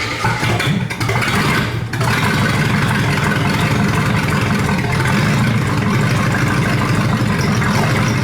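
Freshly rebuilt Chevrolet 283 small-block V8 running just after starting, uneven for about the first two seconds, then settling into a steady run as it is left to idle to see whether it keeps going.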